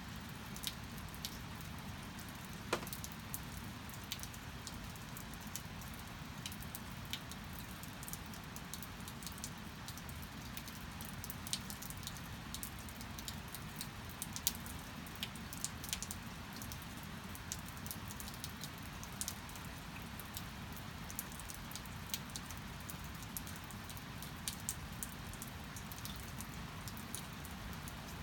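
Steady rain, with many scattered sharp drops and drips landing close by.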